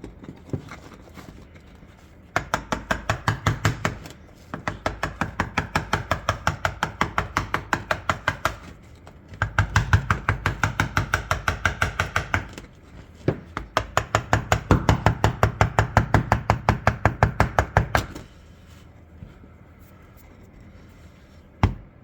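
Hand tool chipping and scraping a thick rust crust off an old shotgun's steel, in fast, even strokes of about six or seven a second. The strokes come in bursts of a few seconds with short pauses between them, and stop about 18 seconds in.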